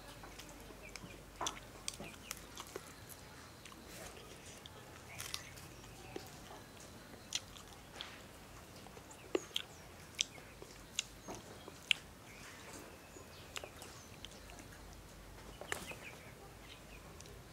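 A man chewing and biting into cooked catfish head eaten by hand: scattered sharp, irregular clicks and crunches, with wet mouth smacks, over a faint steady background.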